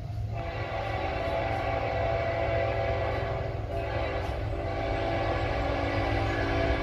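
Locomotive air horn sounding a chord in long blasts, with a brief break about three and a half seconds in, over the steady rumble of the passing train.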